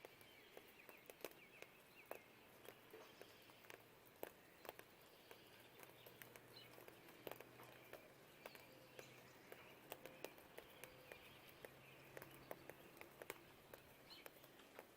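Faint dawn rain ambience: scattered raindrops ticking and dripping at irregular intervals, with faint bird chirps and a low steady hum of distant traffic underneath.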